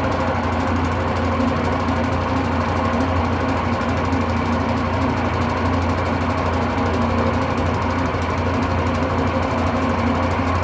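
Electrolux Turbo 8 kg (LM08) top-load washing machine spinning a load with a steady motor hum and no change in speed. The drum runs unbalanced because its suspension springs are broken.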